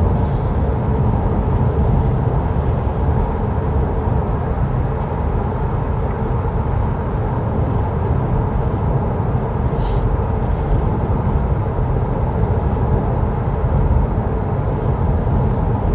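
Steady road and engine noise heard inside the cabin of a VW Caddy van cruising at about 70 mph.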